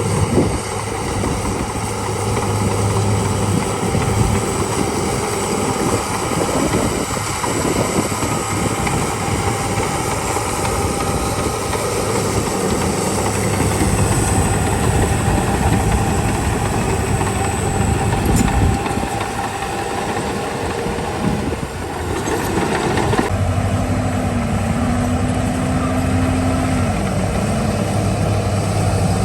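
Heavy diesel construction machinery running continuously with a varying low rumble. About three quarters of the way in, the sound changes abruptly to a steadier engine hum with a wavering tone.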